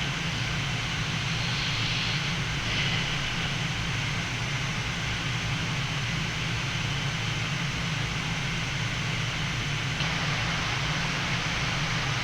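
Steady cockpit noise of a Boeing 787-9 flight deck on final approach: an even airflow hiss over a low engine hum, unchanging throughout.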